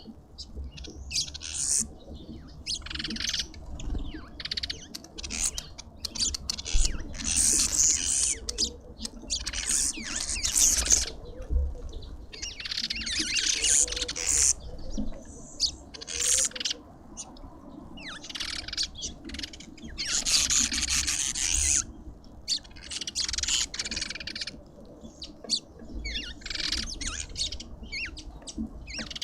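Birds chattering at a garden feeder: many short, hissy bursts of high twittering one after another, over a steady low rumble.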